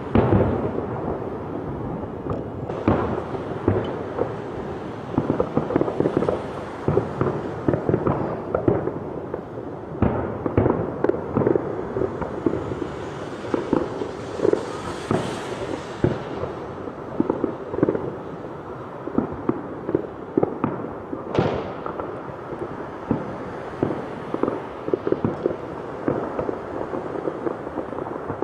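Fireworks going off without a break: a dense run of bangs and crackling, with a few rockets whistling up, one about three seconds in and another about twenty seconds in, and a hissing swell about halfway through.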